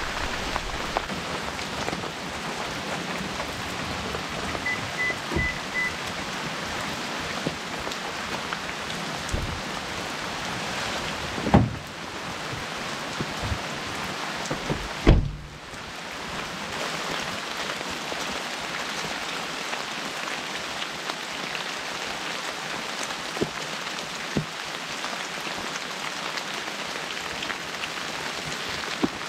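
Steady freezing rain falling, with two loud thumps about twelve and fifteen seconds in and four faint short beeps about five seconds in.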